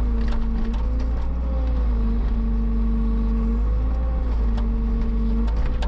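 Heavy-equipment engine running steadily, its pitch stepping slightly up and down every second or two, with a few light clanks.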